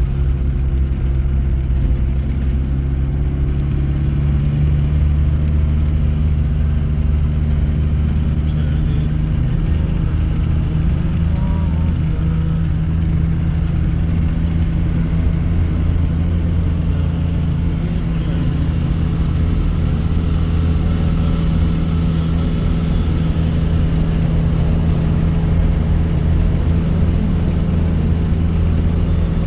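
A motor vehicle's engine running steadily, a loud, even low drone that shifts slightly in pitch about ten seconds in.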